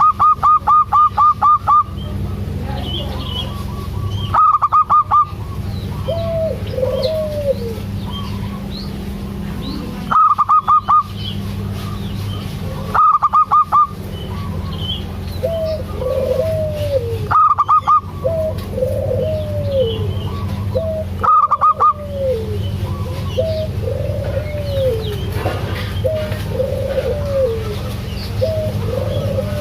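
Zebra dove (perkutut) calling: loud short bursts of rapid pulsed notes recur every few seconds, with softer arching coos in between, over a steady low hum.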